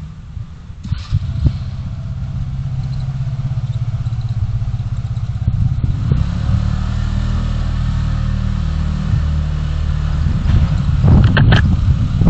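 Car engine and road noise picked up by a dashcam, a steady low hum that grows louder from about a second in as the car gets under way. There are a few clattering knocks near the end.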